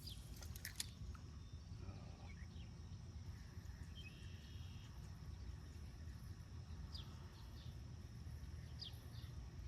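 Faint outdoor ambience on the water: a low rumble, a steady high insect drone, and a few short bird chirps near the end.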